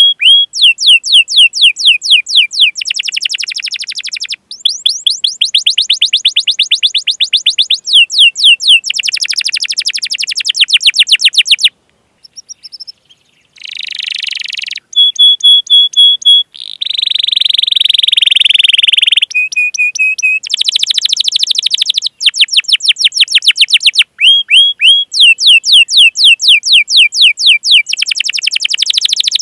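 Domestic canary singing a long, loud song: rapid runs of repeated sweeping chirps, about ten a second, with buzzy rolls and short held notes, and a brief break about twelve seconds in.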